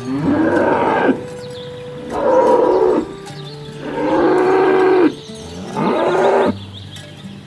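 Cattle mooing: four long moos in a row, each about a second long, the third the longest and the last the shortest.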